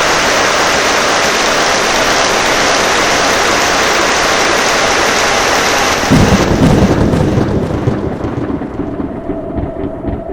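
Heavy rain falling with a steady hiss. About six seconds in, a loud clap of thunder breaks in and rumbles, rolling away over the next few seconds.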